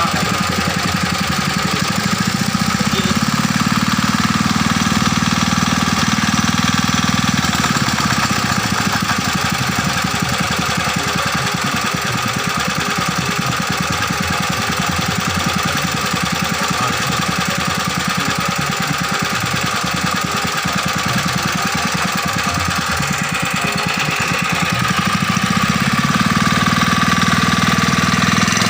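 Restored old small diesel engine running with a fast, even knocking beat, picking up speed briefly twice.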